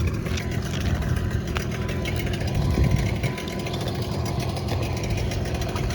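Dinghy outboard motor idling steadily, with a brief louder swell a little under halfway through.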